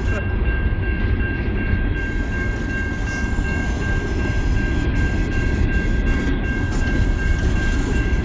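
Coal train's hopper cars rolling past, a steady heavy rumble of wheels on rail with a thin steady high whine over it.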